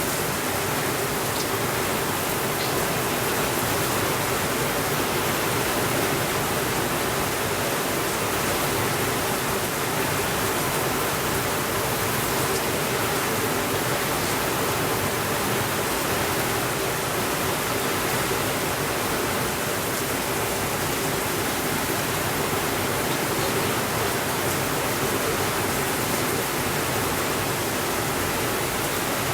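Steady, even rainfall: a continuous hiss of rain with no changes in level.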